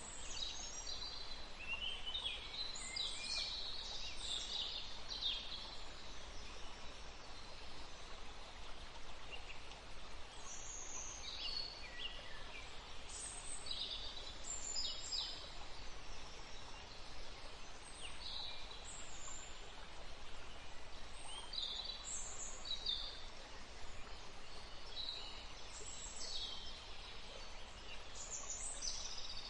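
A woodland stream running steadily, with many short, high bird chirps and calls scattered throughout.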